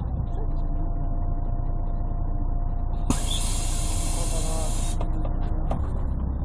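Interior of a Scania CN113CLL city bus with its Scania DSC11 diesel engine running as a steady, muffled, bass-heavy rumble with a faint whine. About three seconds in, a hiss of compressed air lasts about two seconds.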